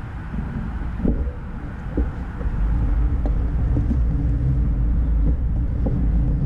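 Low rumble of a ride getting under way, with wind on the microphone. It grows louder about three seconds in and then holds steady, with a few light clicks.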